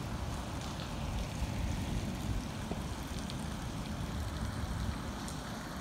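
Heavy rain falling steadily, with a low, unsteady rumble underneath and a few faint drip ticks.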